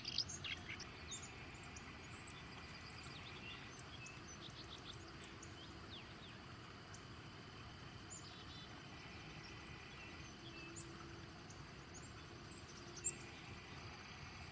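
Faint outdoor ambience: scattered short, high bird chirps over a steady, thin insect trill, with a single soft knock about four seconds in and another near the end.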